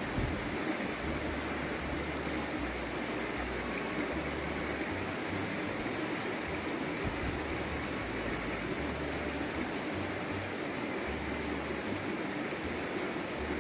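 A forest stream running, a steady rush of flowing water.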